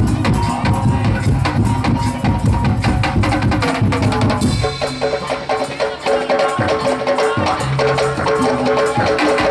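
Madurese musik daul (tong-tong) percussion ensemble playing fast interlocking wooden strikes over drums. About halfway through the low drums drop out and a pitched melodic line carries on over the rattling percussion.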